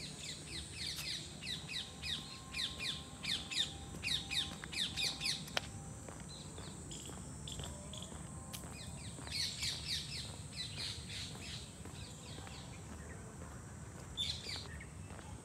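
Birds chirping in the garden trees: quick runs of short, downward-sliding chirps for the first five seconds or so, another run about ten seconds in, and a single call near the end.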